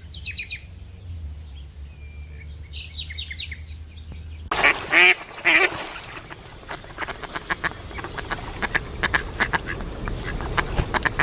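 Swans calling: a few loud honking calls about halfway through, then a rapid run of clicks, after a quieter stretch with a low hum and faint chirps.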